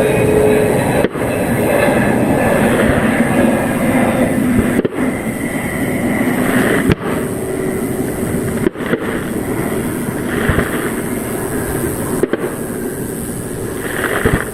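Fireworks display: a dense, continuous barrage of bursts and crackling, with some faint whistling tones running through it.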